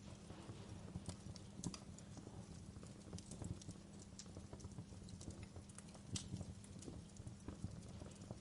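Wood fire crackling: irregular sharp pops and snaps from burning logs over a low, steady rumble of flames.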